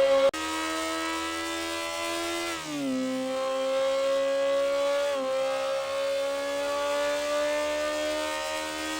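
Kawasaki ZX-10R inline-four engine running at high revs under steady acceleration, its pitch climbing slowly. It dips sharply twice, about 2.7 s and 5 s in, at what sound like upshifts.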